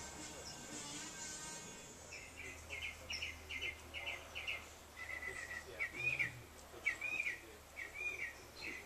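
A bird singing: rapid short trills followed by repeated arched chirps, over a steady low hum. A buzzing tone fades out in the first two seconds.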